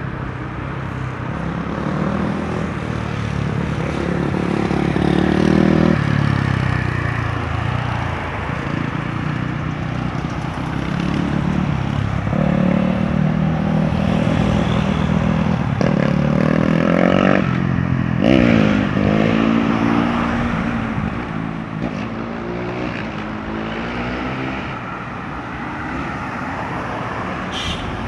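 Road traffic passing at a busy junction: a steady noise of tyres and engines, with several vehicles' engine notes rising and falling in pitch as they pull away and go by, most clearly in the second half.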